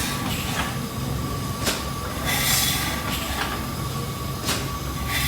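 Steam engine running slowly, with a hiss of exhaust steam about every two and a half seconds over a steady low rumble and sharp mechanical clicks between the hisses.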